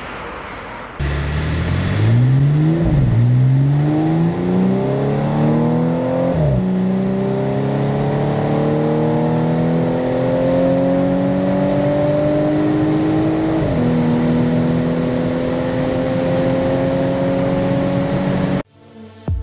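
Audi S5 Cabriolet's 3.0-litre supercharged V6 under full-throttle acceleration, heard from inside the car. About a second in, the engine note jumps louder and climbs in pitch through the gears. Three upshifts each drop the pitch, and each climb is slower in the higher gears. The sound cuts off suddenly near the end.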